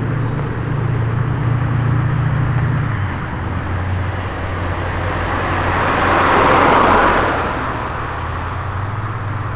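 A car engine running with a low, steady note that drops about three seconds in, as a car rolls in. A broad rush of noise swells and fades, loudest about six to seven seconds in.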